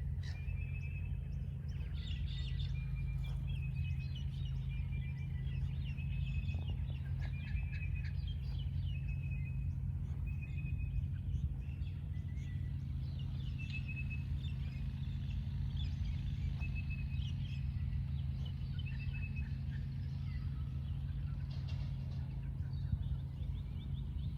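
Several birds chirping, with many short, repeated high calls overlapping throughout, over a steady low rumble.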